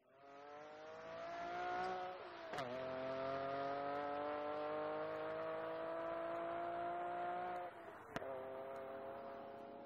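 Car engine accelerating hard through the gears, its pitch climbing steadily and then dropping at two upshifts, each marked by a sharp click, the first about two and a half seconds in and the second about eight seconds in.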